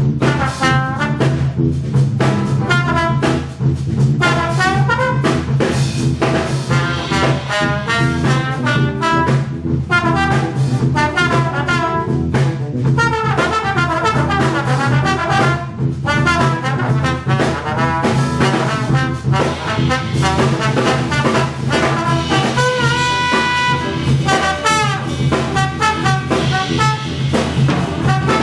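Big-band jazz orchestra playing, with the brass section (trumpets and trombones) out front over drum kit and a steady low bass line.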